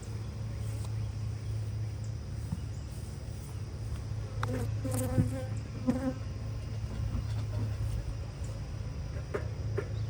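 A colony of honeybees buzzing steadily in an opened hive, a loud, even hum. A few short clicks come through around the middle and near the end.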